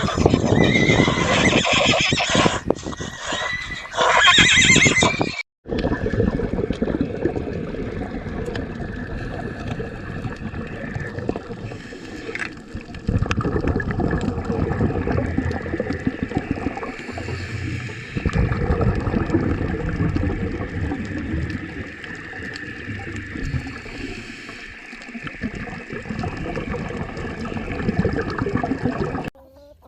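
Horse whinnying loudly in the first five seconds, then after a brief break a long, quieter stretch of horse sounds with a steady noisy background.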